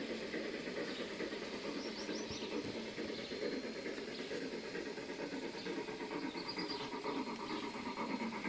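G-scale model train running with a steady engine-like rumble, with a few faint high chirps about two seconds in and again near the end.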